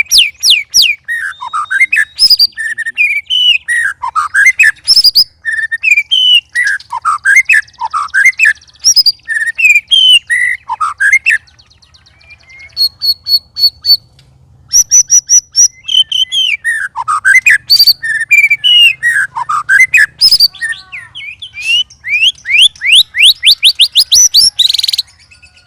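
White-rumped shama (murai batu) singing a loud, rapidly varied song of whistled phrases and fast repeated trills, with short breaks about halfway and again a few seconds before the end.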